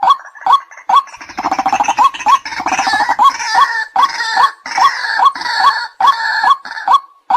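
White-breasted waterhen calls, as played for a bird-trapping lure: short sharp notes repeating about two to three times a second, with a harsh, rapid chattering chorus joining about a second in and dying away near the end.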